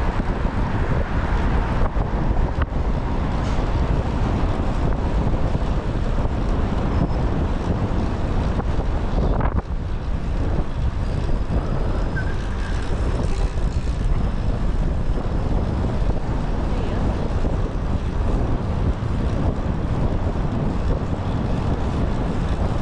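Wind buffeting a GoPro's microphone while cycling, heard as a steady low rushing rumble with a short dip about nine and a half seconds in.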